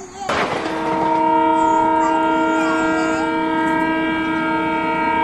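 Toy train's electronic horn sound effect: after a short burst of noise, a steady chord of several tones starts about half a second in and holds without changing pitch.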